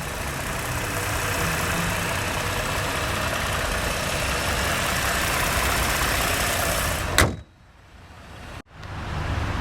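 GM 3.6-litre dual overhead cam V6 idling steadily, then a single sharp thump about seven seconds in, after which the sound drops away to much quieter.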